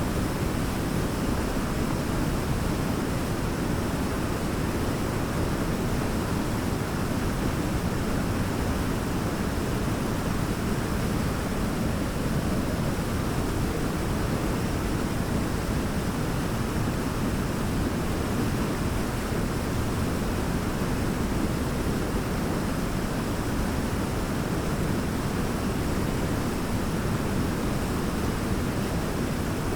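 Large waterfall, a steady, even roar of falling water, strongest in the low range.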